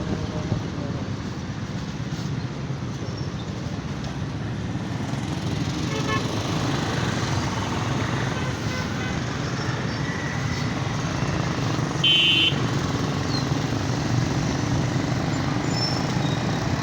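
Steady road and traffic noise from a motorcycle ride through city streets: low engine and wind rumble. A horn sounds briefly about twelve seconds in.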